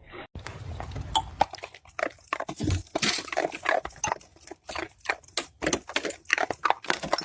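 An animal making many quick, irregular short noises, several a second.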